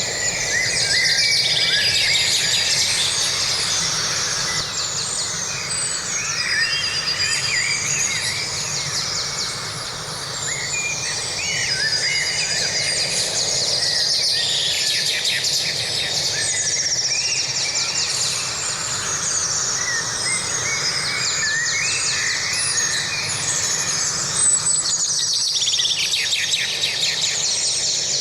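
Many birds chirping and singing at once, with overlapping calls and rapid trills, over a steady low background noise.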